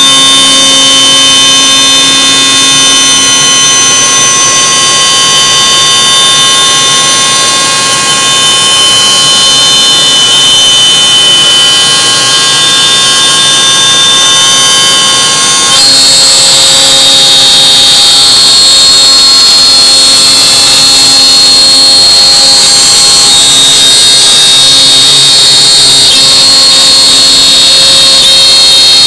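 Laguna CNC router running, its spindle giving a loud, steady, high-pitched whine; about 16 seconds in the tone changes abruptly to a different pitch mix and carries on.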